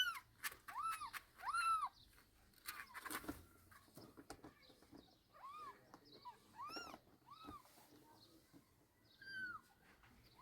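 A cat meowing repeatedly, short calls that each rise and fall in pitch: three in quick succession at the start, then several more spaced out, with a few faint knocks between them.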